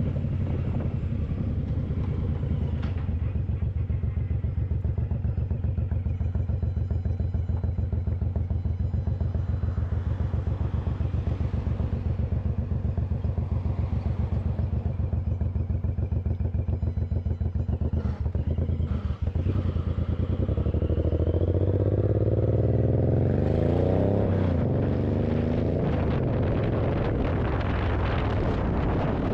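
Suzuki Boulevard M109R's 1,783 cc V-twin engine running steadily on the move. It dips briefly about two-thirds of the way through, then rises in pitch as the bike accelerates.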